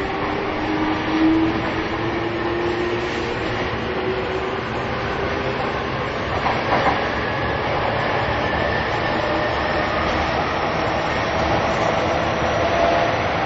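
E233 series 2000 electric train running from inside the car, with its traction motor and inverter whine rising slowly in pitch as it accelerates, over steady rolling noise. A couple of wheel clacks come about two-thirds of the way through.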